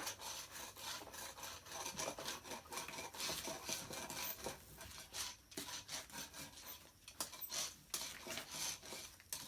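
Hand tools rubbing and scraping over fiberglass in irregular strokes, with small clicks: the sound of laying up the boat's transom.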